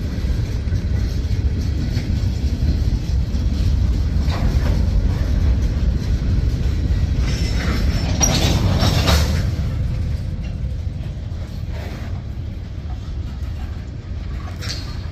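Freight cars of a Norfolk Southern mixed freight train rolling past: a steady low rumble of steel wheels on rail, with a brief high-pitched wheel screech about eight seconds in.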